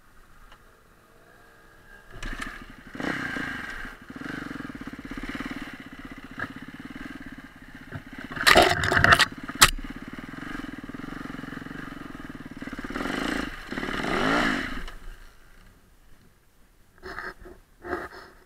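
Husaberg FE400 four-stroke single-cylinder enduro bike's engine revving and pulling over rough ground, coming up about two seconds in and dropping away after about fifteen seconds. A loud burst of clattering knocks comes about halfway through, and a few separate knocks come near the end.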